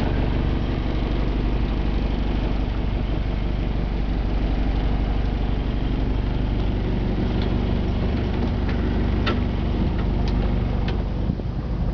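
Motorboat engine running steadily at low, idling revs while the boat manoeuvres out of a harbour. A few light clicks come in the second half.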